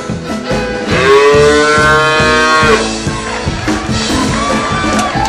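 A miniature donkey gives one long, loud call lasting under two seconds, starting about a second in. Background music with a steady beat plays under it.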